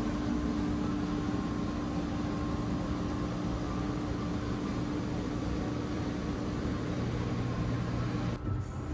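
Steady hum of a stationary train's on-board machinery and ventilation, heard inside a passenger compartment, with a faint held tone over the noise. The hiss drops out briefly near the end.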